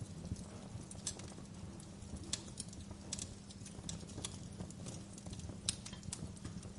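Wood fire crackling: irregular sharp pops and snaps, roughly one or two a second, over a low steady rumble.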